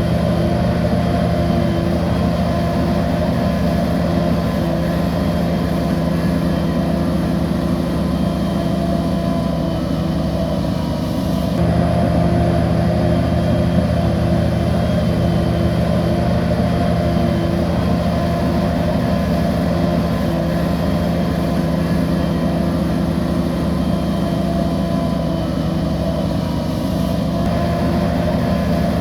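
Bulldozer's heavy diesel engine running steadily under work. The engine note steps up slightly about eleven seconds in and shifts again near the end.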